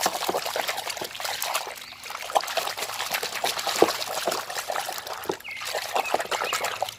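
Water trickling and splashing as a muddy toy vehicle is rinsed and washed by hand, with irregular small splashes throughout.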